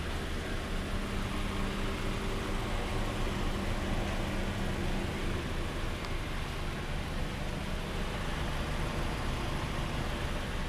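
A vehicle engine idling steadily, a low hum under an even hiss.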